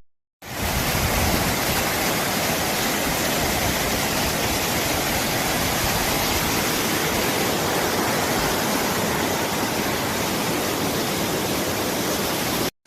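Steady rush of a roadside waterfall, an even roar of falling water with no changes. It comes in about half a second in and cuts off abruptly just before the end.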